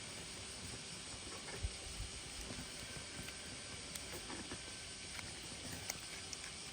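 Steady outdoor background hiss, with a few faint short ticks scattered through it.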